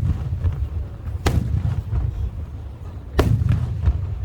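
Aerial firework shells bursting: two sharp booms about two seconds apart, one near the start and one near the end, over a steady low rumble.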